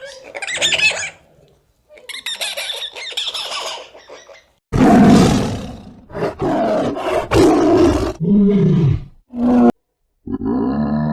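A series of separate animal calls: high squeaky chatter and squeals first, then a loud, rough roar-like call in the middle that is the loudest part, then shorter, lower calls near the end.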